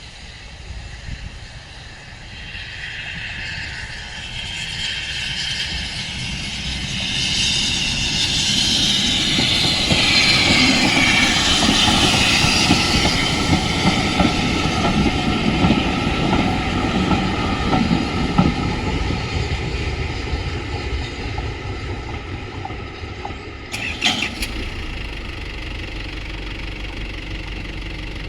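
Heritage railway train passing over a level crossing: its rumble and hiss build to a peak about halfway through, then fade. A short clatter of sharp knocks near the end.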